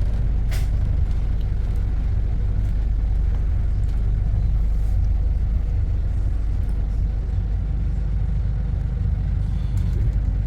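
Steady low rumble of a bus's engine and road noise, heard from inside the moving bus, with one short sharp sound about half a second in.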